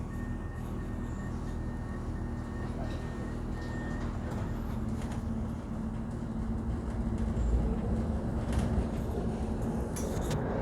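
Steady low vehicle rumble, with a series of short, evenly spaced electronic beeps in the first few seconds.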